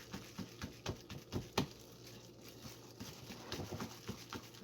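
Cake batter being mixed by hand: a utensil tapping and scraping against the mixing bowl in a quick, uneven run of soft clicks.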